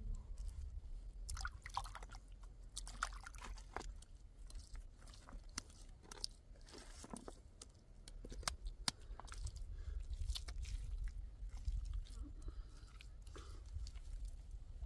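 Irregular crunching and crackling, with sharp clicks coming at uneven intervals, over a steady low rumble.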